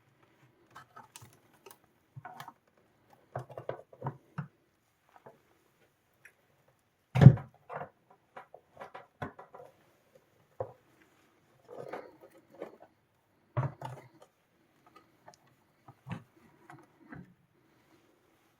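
Scattered light clicks, taps and knocks as parts are handled and set down during reassembly, with one louder knock about seven seconds in.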